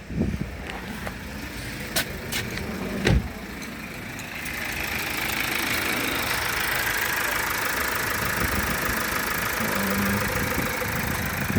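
2015 Mazda CX-5's 2.2-litre SH diesel engine running, which the seller describes as running smooth. There are a few sharp clicks in the first three seconds, the loudest about three seconds in, and from about four and a half seconds the sound grows louder and hissier and stays up.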